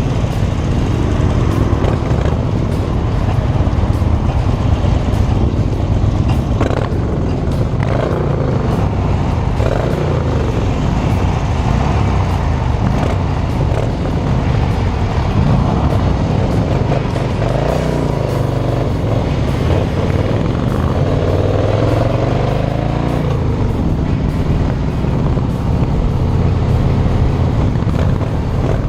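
Harley-Davidson V-twin motorcycle engine running under way, its pitch rising and falling several times as it revs up and eases off.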